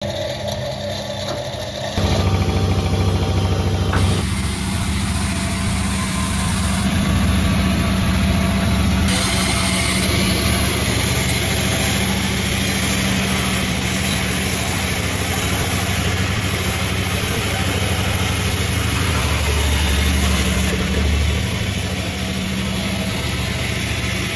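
Multi-blade sawmill machinery running with a steady low hum, getting louder about two seconds in.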